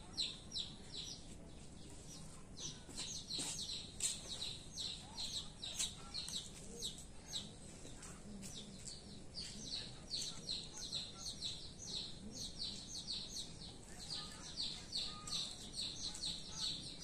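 Small birds chirping: a fast, steady string of short, high chirps, about five a second, that runs on almost without a break.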